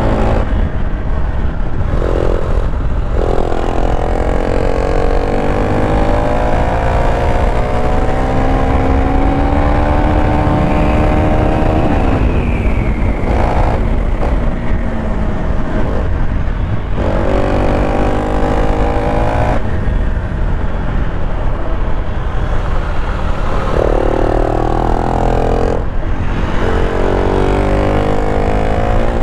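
KTM Duke 390's single-cylinder engine pulling hard through the gears. The engine note climbs steadily, drops at each upshift and climbs again, several times over, with a long pull in the middle. A heavy rush of wind noise runs under it.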